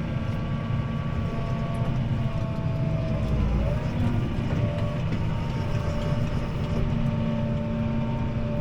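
CLAAS Arion 650 tractor's six-cylinder diesel running steadily under load in the cab while pulling a disc harrow, with a steady whine over the engine's rumble. The whine dips briefly in pitch and the low rumble swells a little before the middle, then both settle back.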